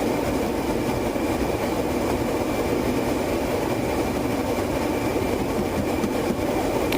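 Steady rushing and rumbling noise inside a patrol car's cabin, with the air conditioning blowing.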